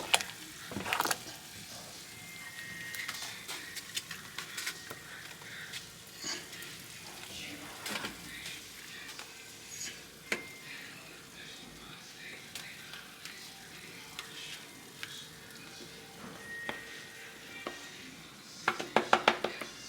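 A spoon scooping food and clinking against a pot and plate as dinner is dished up, with scattered small clicks and a quick run of sharp taps near the end.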